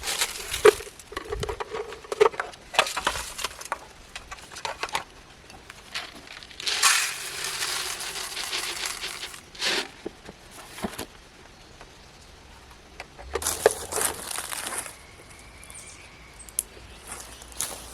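Bird feeder and birdseed being handled: scattered clicks and rustling, crinkling noises, with a stretch of about three seconds of steady hiss-like pouring noise near the middle.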